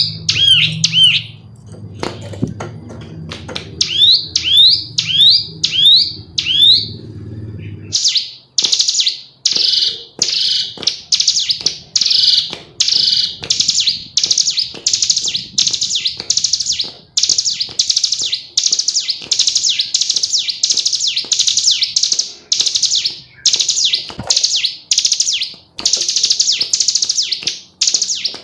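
Female ciblek gunung (a prinia) calling. First come short groups of quick rising whistled notes over a low steady hum. From about 8 seconds in, the hum stops and the bird gives a fast, near-continuous run of chirping phrases, one after another.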